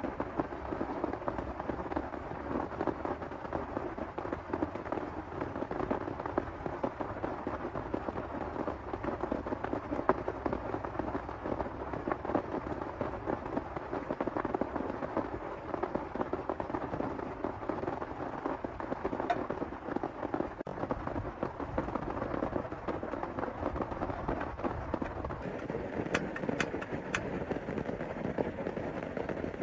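Heavy rain pouring steadily, a dense crackle of drops hitting close by, with a few sharper clicks of drops near the end.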